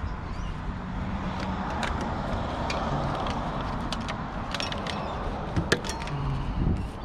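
Several sharp clicks and knocks of hard objects being handled, the loudest about six seconds in, over a steady background hum.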